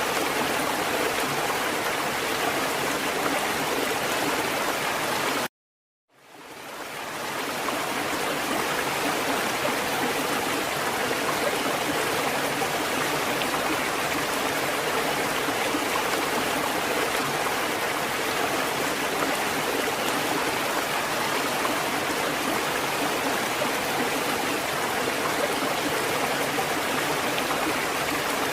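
Steady rush of running water from a fountain, with no knocks or drips standing out. About five and a half seconds in it cuts out completely for a moment, then fades back up over a second or so.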